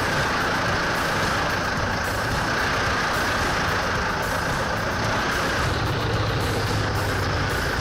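Heavy machinery engine running steadily, with a low hum under a continuous hiss.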